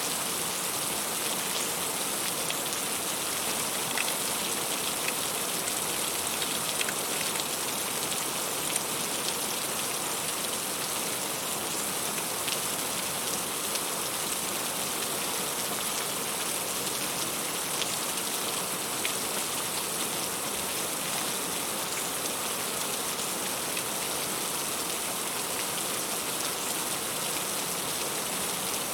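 Heavy rain falling steadily on leaves, with scattered louder drop ticks.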